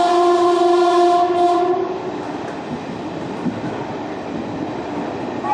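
Train horn sounding one steady blast of nearly two seconds over the constant rumble of the moving train. A second horn note starts right at the end.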